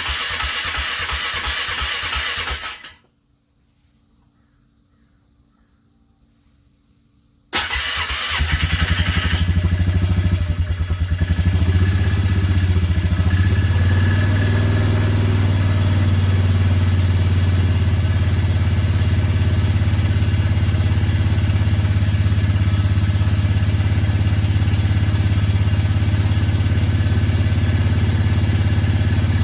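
Motorcycle engine on a cranky cold start after a frosty night: it runs or cranks for about three seconds and stops, then after a few seconds of quiet it fires up suddenly, runs unevenly for a moment, and settles into a steady cold idle.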